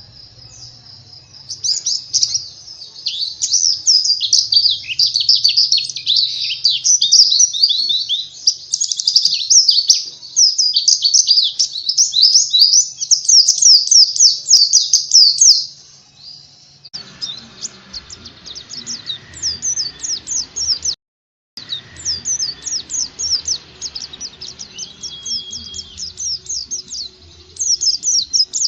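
White-eye (pleci) song: a fast, continuous, high-pitched twittering of quick notes. It is loud for about the first half, then goes fainter against background noise, with a brief dropout about three quarters through.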